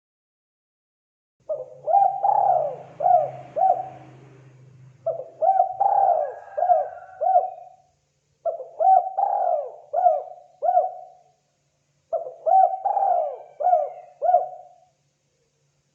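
Spotted dove calling: four cooing phrases, each a quick run of about five hooked coos.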